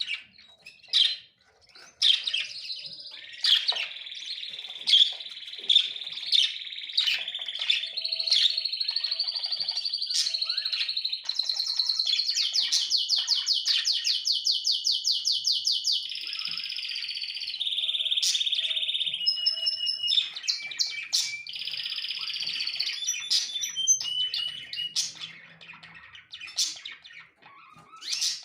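A small songbird singing: scattered chirps, then a long unbroken warbling song from about two seconds in, with a fast, even trill in the middle, breaking back into separate chirps near the end.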